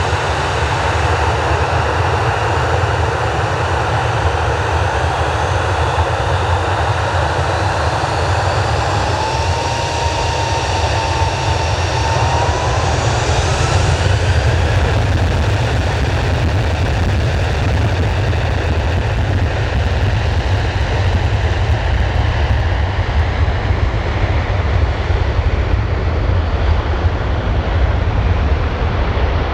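Boeing 737-800's CFM56-7B turbofan engines running loud during takeoff, with a deep rumble underneath. About nine seconds in, a thin whine rises in pitch over a few seconds.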